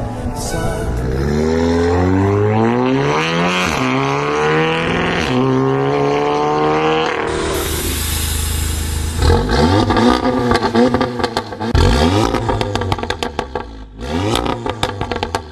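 Volkswagen Polo GT engine revved through a loud aftermarket exhaust, its revs rising and falling several times. About halfway through it cuts to a car blipping the throttle, with rapid crackles and pops from the exhaust as the revs drop.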